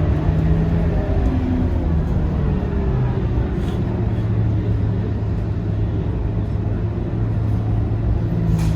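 Scania K230UB city bus's diesel engine running under way with road rumble; its note drops about three seconds in, holds steady, and rises again near the end.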